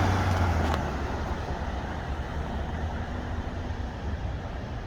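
Fire engine's diesel engine rumbling, loudest in the first second, then easing off slightly.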